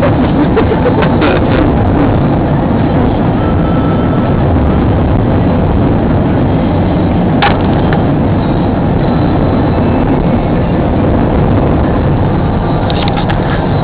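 Vehicle travelling on a highway, heard from inside: a loud, steady rumble of road and wind noise, with a single sharp click about halfway through.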